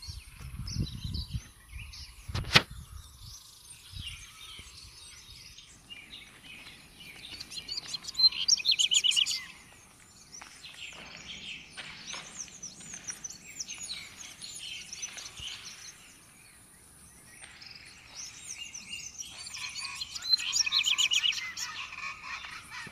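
Wild birds calling and chirping, with two loud bursts of rapid repeated notes, about eight seconds in and again near the end. A few low thumps and a single sharp click come in the first three seconds.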